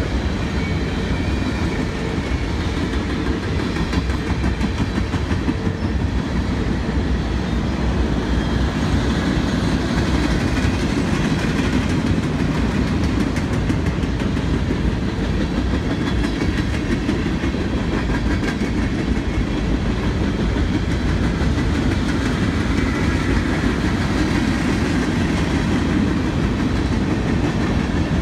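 Freight cars of a long CSX mixed freight train (tank cars, covered hoppers, boxcars) rolling past at steady speed: the continuous, even rumble of steel wheels on the rails, strongest in the low end.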